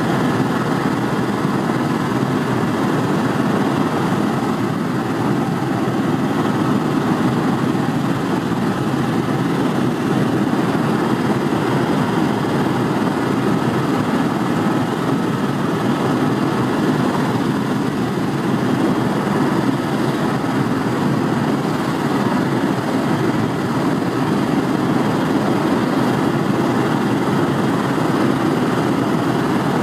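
Helicopter in flight heard from inside the cabin: a steady, loud engine and rotor drone that holds constant throughout.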